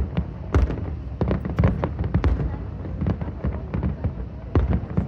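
Aerial fireworks bursting in rapid, irregular succession: many sharp bangs and crackles, several a second, with heavier booms among them.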